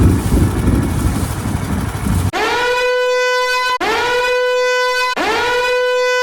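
A stretch of hissing noise, then three identical horn blasts about a second and a half each, every blast scooping up in pitch into one steady note.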